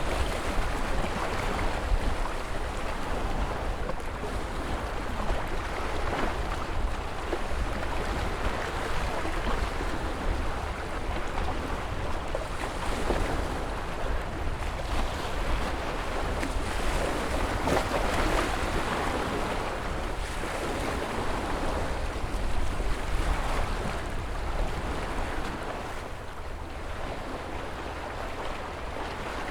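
Ocean surf: waves breaking and washing in a continuous hiss that swells and eases every few seconds, with a deep rumble underneath and wind on the microphone.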